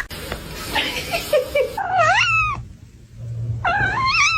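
A cat meowing twice, two drawn-out calls that rise and fall in pitch, the second near the end.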